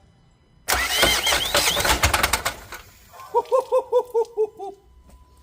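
Renault Trafic diesel engine cranks and fires for about two seconds with loud, rapid metallic knocking, then stops abruptly: a catastrophic bottom-end failure. Soon after, a quick run of about eight short pitched calls.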